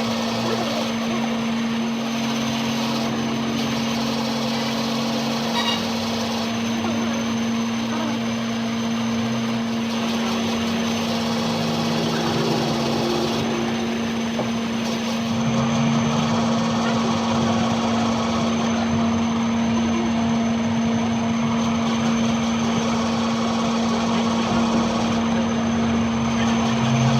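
A machine running steadily with a constant hum, its pitch unchanging, while lower tones come and go every few seconds.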